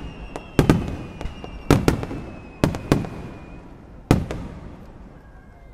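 Aerial fireworks shells bursting in quick succession: about seven sharp bangs, mostly in pairs, each followed by a rolling echo. The last burst comes about four seconds in and dies away.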